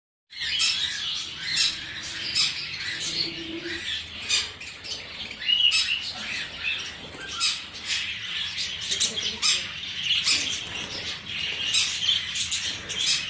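Exotic pet birds calling together: a dense, unbroken chatter of chirps and sharp squawks that starts about a third of a second in.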